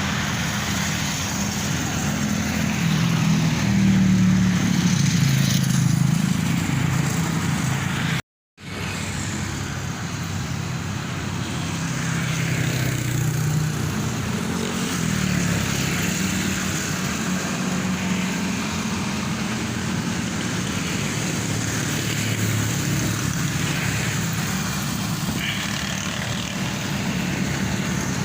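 Road traffic noise from a moving vehicle: a steady engine rumble and road noise, broken by a sudden half-second silence about eight seconds in.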